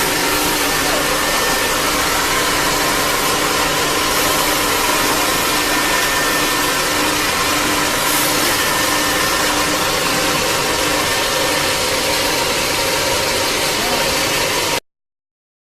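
CNC wood router running: a steady, loud machine noise with a few held tones in it. It cuts off suddenly near the end.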